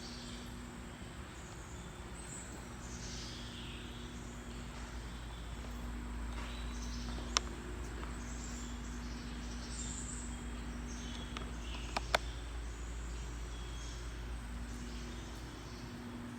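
Faint woodland ambience: birds calling with short falling chirps over a steady low rumble and an on-and-off hum. There are sharp clicks about seven seconds in and twice near twelve seconds.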